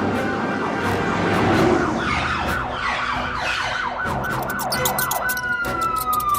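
Police siren sound effect in fast yelp mode, rising sweeps about four times a second, switching about five seconds in to one long falling tone.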